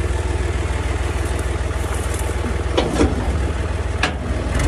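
Al-Ghazi tractor's diesel engine running steadily with a fast, even low throb, as it drives a wheat thresher. A few short, sharp sounds cut through about three seconds in and again near four seconds.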